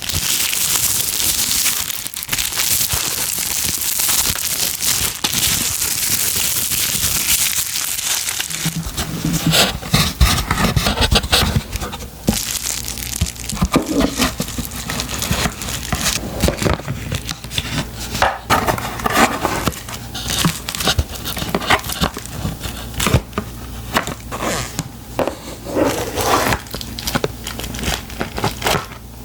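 Crinkly packaging being crumpled and handled: dense, continuous crinkling for the first nine seconds or so, then scattered crackles and taps with a low hum underneath.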